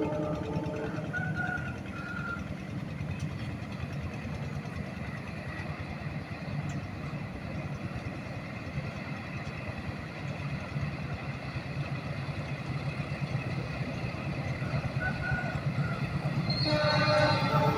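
Diesel-hauled train running steadily, growing louder toward the end as it nears, with a horn sounding shortly before the end.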